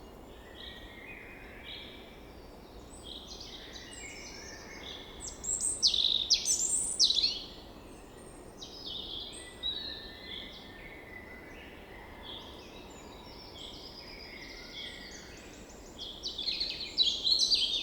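Birds chirping and singing, many short calls over a faint steady background hiss, with the loudest bursts of song about five to seven seconds in and again near the end.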